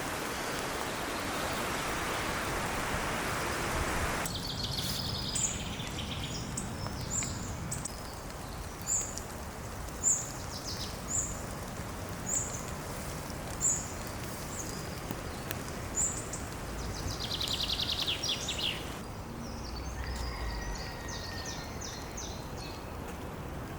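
Wild birds singing outdoors: a high, short call repeated about once a second, then a quick trill, then other chirping song. A rushing wind or leaf-rustle noise fills the first few seconds before the birdsong starts.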